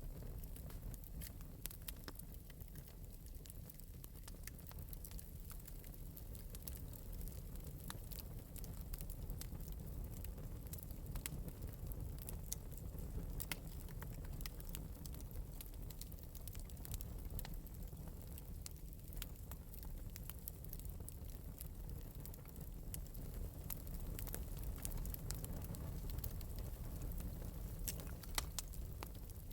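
Wood fire in an open metal fireplace crackling lightly, with scattered sharp pops over a steady low rumble of the flames.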